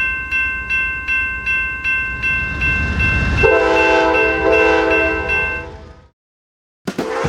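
A train horn sounding a steady high chord over a regular clicking, about three clicks a second; about three and a half seconds in, a second, lower horn chord joins, and both cut off abruptly.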